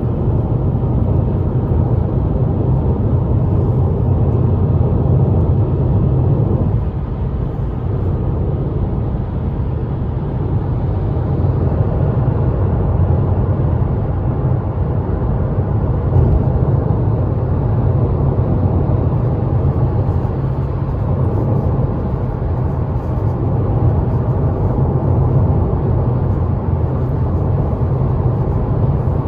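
Steady low rumble of a car driving on a highway: engine and tyre noise, easing slightly about seven seconds in.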